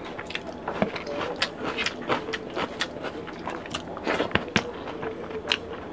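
Two people eating rice and curry by hand: wet chewing and lip-smacking, heard as a string of short, irregular smacks and clicks.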